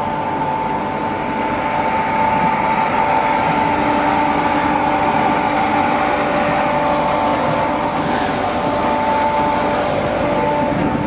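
Steady mechanical drone of a docked passenger fast craft's machinery, with several steady whining tones held over a rumbling hiss; a lower hum joins about four seconds in.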